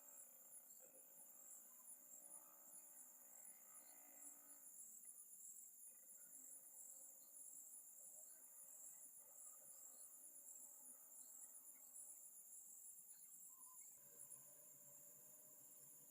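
Crickets chirring faintly and without a break in high, pulsing trills.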